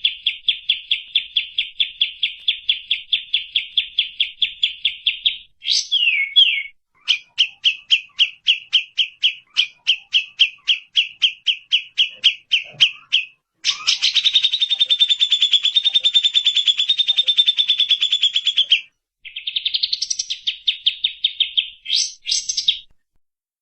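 Recorded songbird song: long runs of sharp, evenly repeated chattering notes at several a second, broken by brief pauses and a few down-slurred notes. About two-thirds of the way through there is a denser, faster trill lasting about five seconds. The song stops just before the end.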